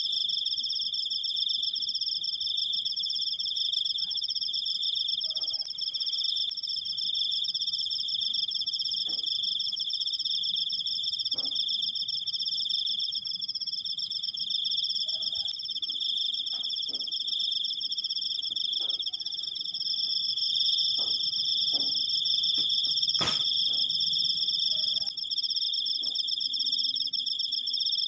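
Crickets trilling continuously, two steady high-pitched trills at different pitches. A few faint ticks, and one sharper click about 23 seconds in.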